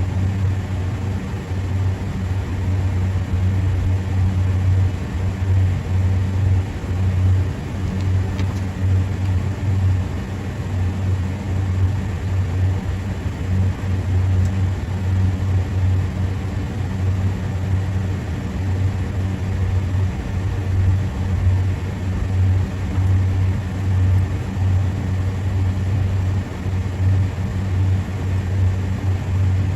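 Steady low machine hum with a constant deep tone and a fainter overtone above it.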